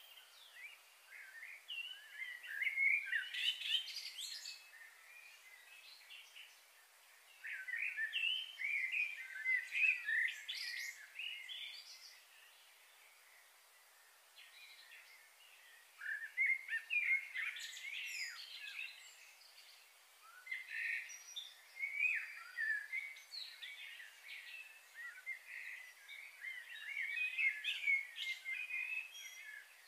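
Small songbirds chirping in quick, high, gliding calls that come in bouts of a few seconds with short lulls between, over a faint steady hiss.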